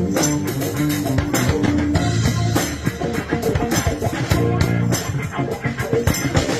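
Live band music: an electric bass played slap style over a drum kit, with rhythmic percussive hits and moving low bass notes.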